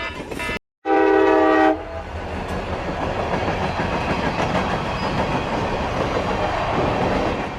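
A train horn sounds once, a loud chord held for about a second, just after a moment's silence. The steady running noise of a passing train follows.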